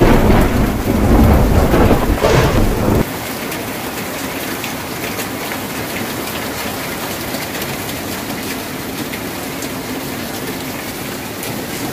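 Rain on a tin roof with a loud rumble of thunder that cuts off suddenly about three seconds in, leaving steady rain with scattered drop ticks.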